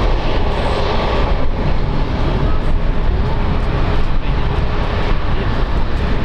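Airbus A321XLR airliner's jet engines running, a loud steady noise with a faint steady hum through it.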